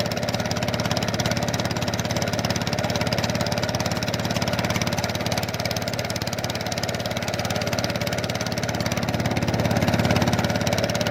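A small engine running steadily at an even speed, with a fast regular firing pulse.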